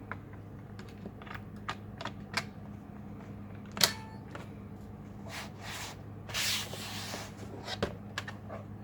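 Light plastic clicks and taps from handling an HP laptop, with one sharp click about four seconds in and a short rubbing, sliding sound a little later, over a steady low hum.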